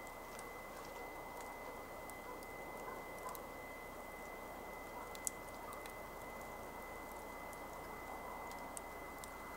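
Campfire burning with a soft hiss and scattered small crackles, and one sharper pop about five seconds in.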